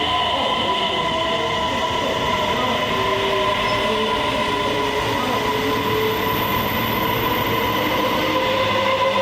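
Electric train running, with a steady high whine over a constant rumble and a lower tone that shifts in pitch, rising slowly near the end.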